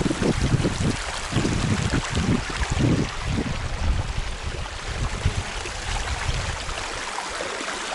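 Stream water flowing steadily, with irregular low buffeting of wind on the microphone during the first five seconds or so.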